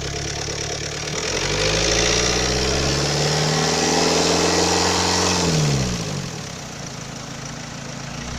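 Renault Kangoo's K9K 1.5 dCi diesel engine revved up about a second in, held at raised revs for a few seconds, then let fall back to idle about six seconds in.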